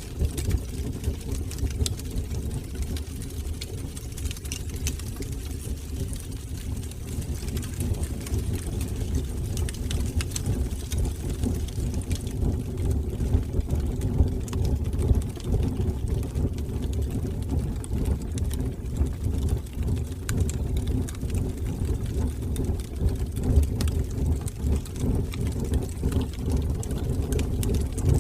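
Fire burning in a fireplace: a steady low rumble of the flames with scattered faint crackles.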